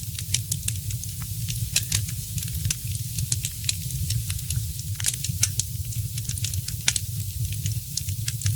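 Fireplace fire crackling, with frequent sharp pops and snaps over a steady low rumble.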